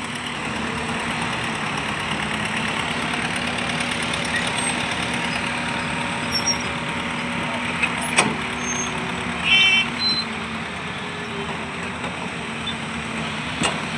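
A heavy vehicle's engine running steadily. Two sharp knocks come about 8 seconds in and just before the end, and a short high-pitched chirp sounds about halfway through.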